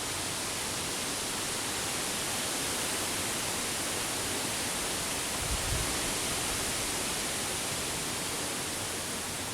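Steady rushing hiss of flowing creek water. A brief low rumble of wind on the microphone comes about five and a half seconds in.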